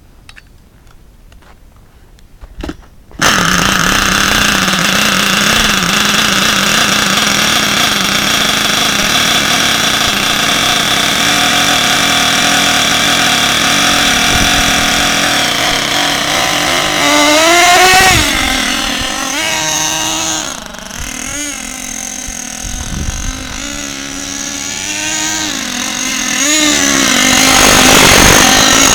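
Small nitro engine of an HPI Lightning Stadium Pro RC stadium truck starting suddenly about three seconds in and running steadily at a high idle. In the second half it revs up and down repeatedly.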